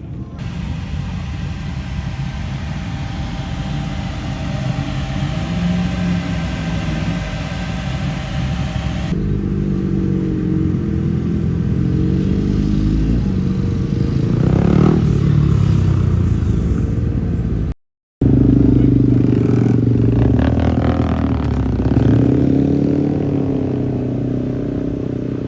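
Road vehicle engines running and revving in passing, their pitch swelling and falling as they go by, heard across several cut-together segments with a brief dropout about three quarters of the way through.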